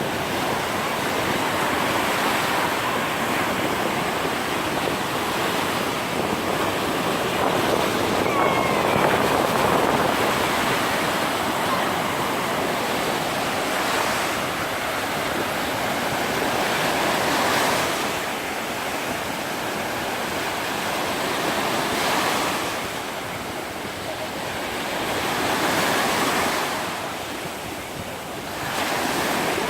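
Sea surf washing onto a sandy beach, a steady rush that swells and eases as each wave breaks and runs up the shore, with some wind on the microphone.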